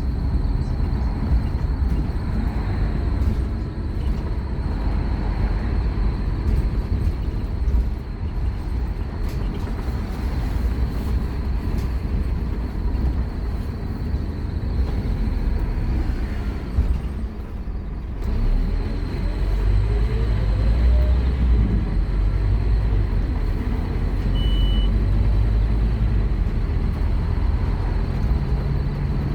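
Scania K230UB Omnilink single-decker bus's five-cylinder diesel heard from on board, running hard with a steady low rumble. About two-thirds of the way in it eases off briefly, then the engine note rises and runs louder as the bus accelerates again.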